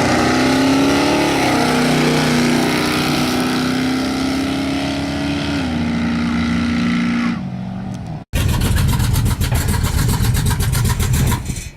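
Chevy 350 V8 of a 1983 C10 pickup at full throttle down a drag strip, its pitch dropping at gear shifts. About eight seconds in it cuts off abruptly and is followed by a rougher, rapidly pulsing engine sound.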